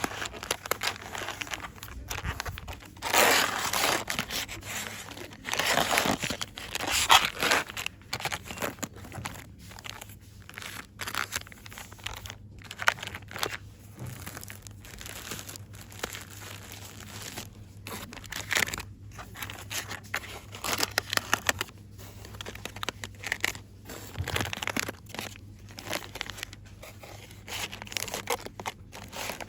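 Fast, irregular crinkling and rustling of crinkly packaging handled close to the microphone, with louder bursts a few seconds in and again around six to seven seconds in.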